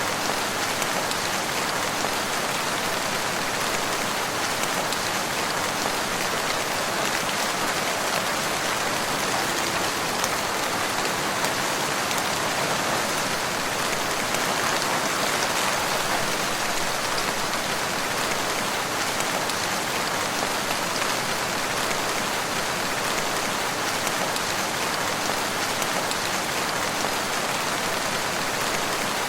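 Steady rain falling in woodland, an even hiss of rain on leaves and ground with no thunder.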